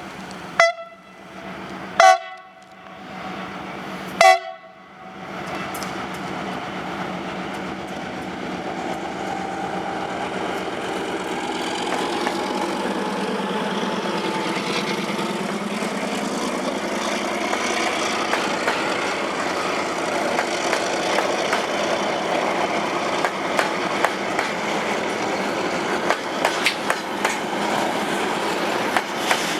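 CRRC diesel freight locomotive sounding its horn in three short blasts, then passing with its train of loaded freight wagons, wheels clacking over the rail joints as the rumble builds.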